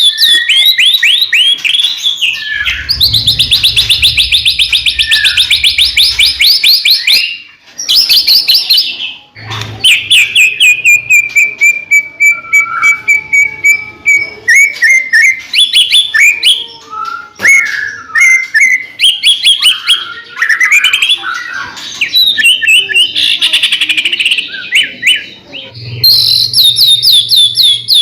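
White-rumped shama (murai batu) singing loudly and without a break: fast runs of repeated notes and trills, with a long whistle near the middle that falls and then holds steady.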